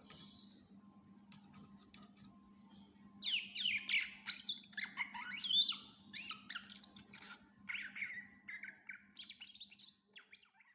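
Cucak ijo (green leafbird) singing in full voice: a loud, rapid, varied run of sweeping whistled notes packed with mimicked phrases, starting about three seconds in after a few faint clicks.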